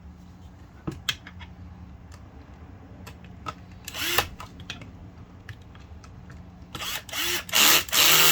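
Power driver running screws back into a septic aerator pump's housing in short spurts: a brief one about four seconds in and a longer, louder one near the end, each winding down in pitch as it stops. Small clicks of parts being handled come between.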